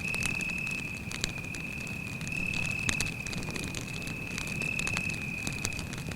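Campfire crackling, with scattered sharp pops of burning wood, over the steady, unbroken high trill of a cricket.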